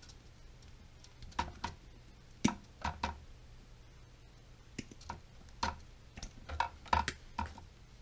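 Irregular light clicks and taps of plastic toilet fill-valve parts and hose being handled, about a dozen in all, with a short lull near the middle.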